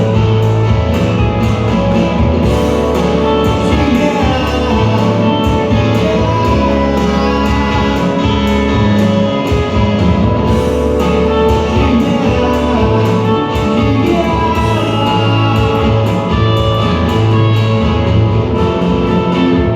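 A live rock band playing an instrumental passage, with electric guitars, bass and drums.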